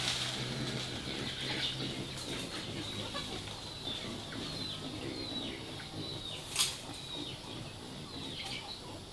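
Small birds chirping: a run of short, high chirps, each falling in pitch, repeating irregularly. A single sharp click sounds about six and a half seconds in.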